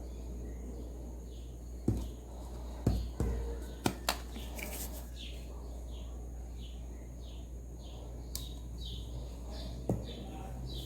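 A bird chirping in a run of short, evenly repeated notes, about two to three a second, through the second half. Over a steady low hum, a few sharp knocks come a couple of seconds in and again near the end.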